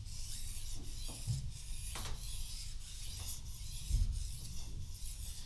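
Steel kitchen knife blade scraping on a whetstone in repeated push-and-pull strokes, a hissing rasp that rises and falls with each stroke. The sharpening is being continued because the burr along the edge has not yet fully formed.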